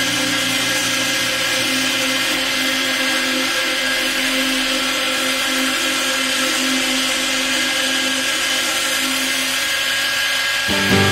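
Homemade belt grinder running idle, its abrasive belt running over wooden contact wheels with no workpiece against it: a steady whirring hiss.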